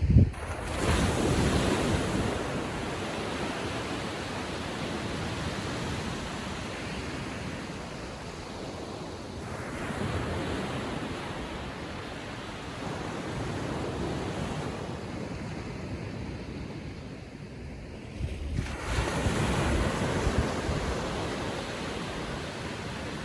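Gentle ocean waves breaking and washing up a beach, with a breaker swelling up near the start, another about ten seconds in and another near the end. Wind buffets the microphone.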